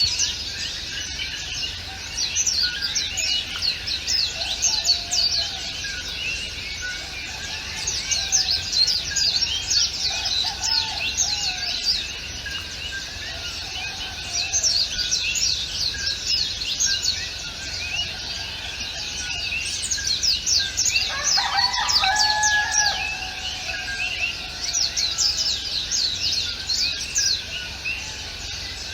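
Many small birds chirping together in fast, high, downward-sweeping notes that swell and fade in waves. About two-thirds of the way through, a lower, drawn-out call from another bird stands out for a couple of seconds.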